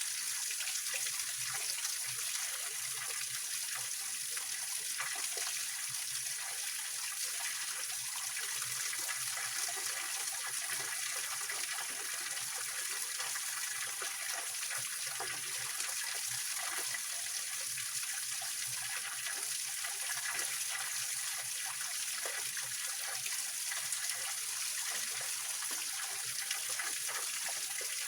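Small waterfall on a rocky mountain stream: water splashing and rushing steadily over stones, a bright hiss with fine, irregular splashes throughout.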